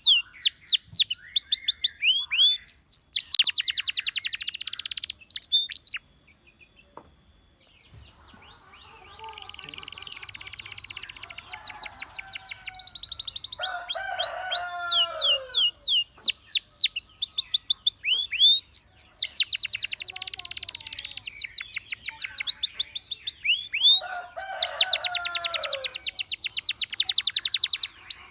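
Domestic canary singing: quick series of rising chirps broken by fast buzzy trills and a few lower, falling notes. The song stops for about two seconds a quarter of the way in, then resumes.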